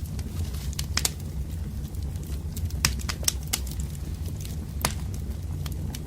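Wood fire burning, with sharp crackles and pops of the burning logs, a handful of them standing out, over a steady low rumble.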